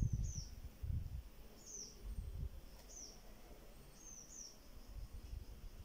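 A small bird chirping faintly in short, high, falling chirps about every second or so, some in quick pairs, over intermittent low rumbling background noise.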